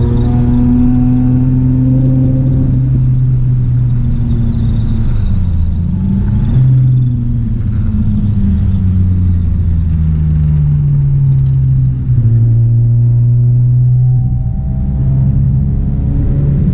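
Mazda RX-7 FD3S's turbocharged rotary engine running hard on a lap, its pitch climbing and falling repeatedly as it accelerates and slows, with a brief drop in level about twelve seconds in.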